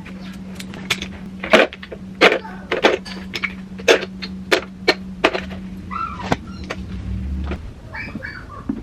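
A series of irregular sharp knocks and clicks, like household items being handled and set down, over a steady low hum that stops near the end.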